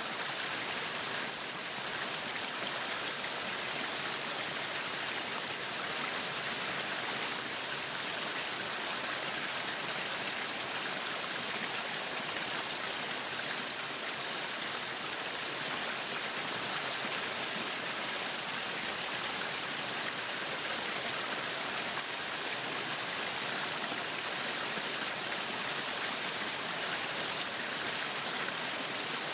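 Meat sizzling on a yakiniku grill: a steady, dense hiss with fine crackling that stays level throughout.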